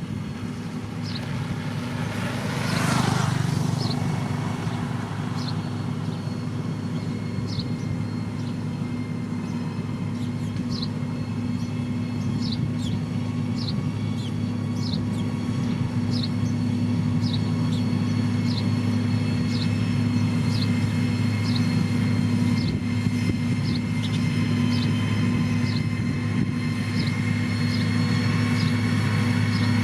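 Diesel engine of heavy road-building machinery running steadily under load. About three seconds in comes a brief hiss that falls in pitch, and short high chirps repeat every second or so.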